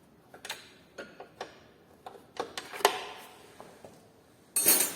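Metal hand tools clicking and knocking against a suspension bolt and nut, with irregular sharp clicks, several louder ones about two and a half seconds in, and a brief loud scraping rattle near the end.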